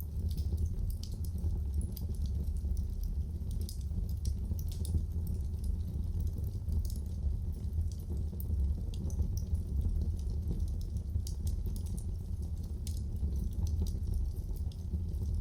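Wood fire burning in a fireplace: irregular pops and crackles scattered throughout over a steady low rumble from the flames.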